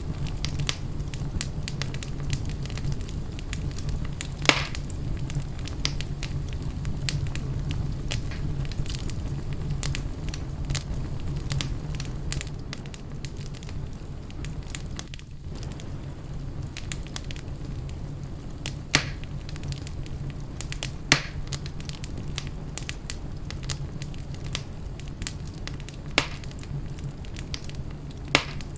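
Wood fire burning in a fireplace, crackling steadily with many small ticks and a few louder pops spread through, over a steady low hum.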